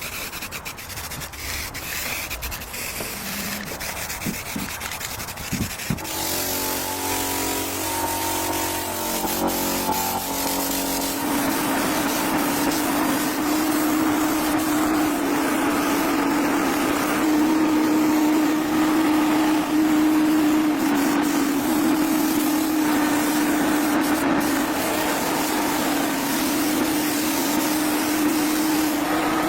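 Small motor-driven tool that runs steadily from about eleven seconds in, with a hum and a hiss, after irregular mechanical noise at the start.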